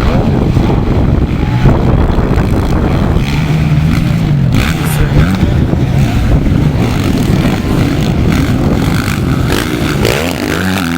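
Motocross motorcycles racing on the track, engines revving up and down as riders accelerate and shift, with a bike accelerating near the end.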